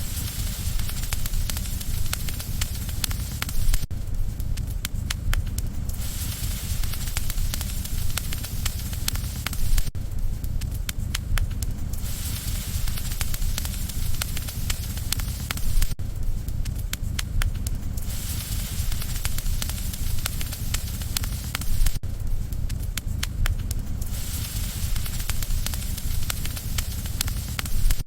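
Wood campfire crackling with frequent sharp pops over a steady low rumble, with a hiss that swells and fades every few seconds.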